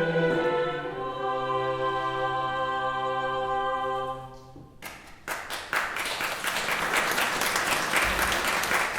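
A choir sings a long held final chord that dies away after about four seconds. Then the audience bursts into applause.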